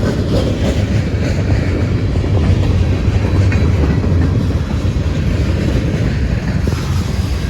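CSX freight train rolling past, a steady loud rumble of its wheels on the rails.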